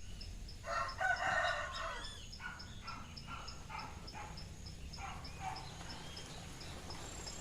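A rooster crowing once, followed by a run of shorter calls, over a faint high ticking about three times a second.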